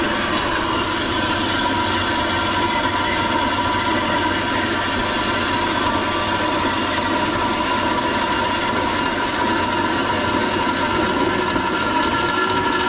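Machinery running steadily: a constant engine drone with a steady high whine over it.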